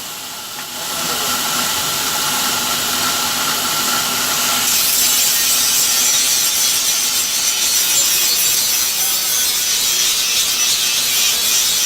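A power tool running steadily, then cutting or grinding into material with a denser, louder hiss from about five seconds in.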